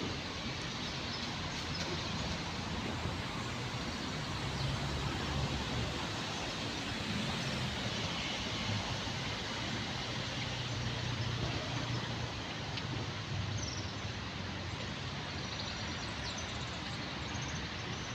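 Steady outdoor background noise with a low rumble like distant traffic. A few faint, high bird chirps come near the end.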